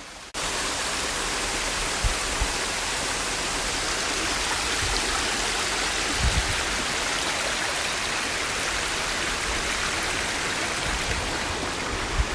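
Steady rush of a stream or waterfall, starting suddenly, with a few low thumps of wind on the microphone.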